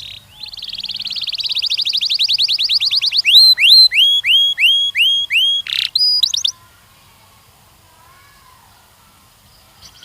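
Canary singing: a fast, even trill of rapid notes for about three seconds, then a run of about seven slower, louder downward-slurred whistles, ending in a short burst of high notes.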